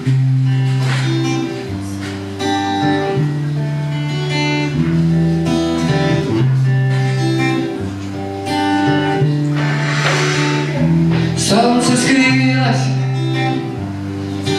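Instrumental introduction of a singer-songwriter song: acoustic guitar playing over sustained low bass notes.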